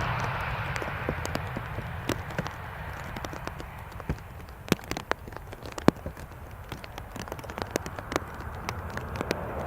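Raindrops tapping irregularly on a surface close to the microphone, over a steady low rumble; a broader rushing noise fades away over the first couple of seconds.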